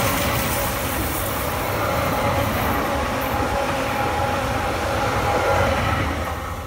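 Electric multiple-unit passenger train passing at speed: steady rumble of wheels on rails with a steady electric motor whine. The sound drops away near the end as the last car goes by.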